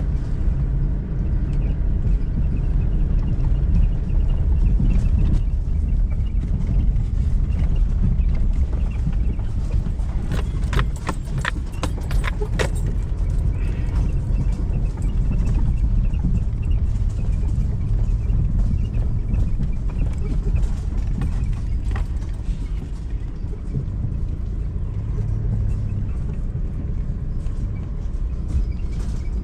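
Four-wheel-drive vehicle driving slowly over a rough dirt bush track, a steady low rumble of engine and tyres, with a quick run of knocks and rattles about eleven seconds in.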